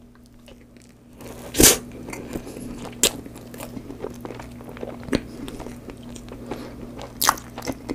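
Close-miked chewing of a mouthful of cream sponge cake: soft, wet mouth clicks and smacks, with a few louder sharp smacks, the first about one and a half seconds in and another near the end. A faint steady low hum runs underneath.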